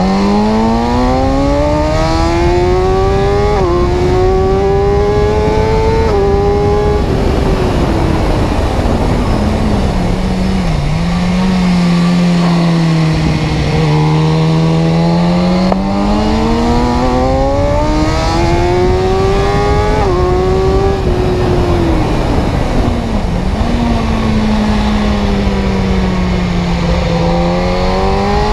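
Car engine accelerating, its note climbing through two quick gear changes, then dropping back and holding a low steady note. About halfway through it climbs again through another shift and falls back.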